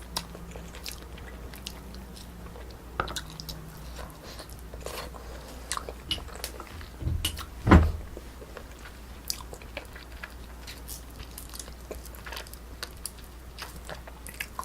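Close-miked chewing and biting of braised spicy chicken (dak-bokkeum-tang), with scattered short wet mouth clicks and one louder thump about halfway through.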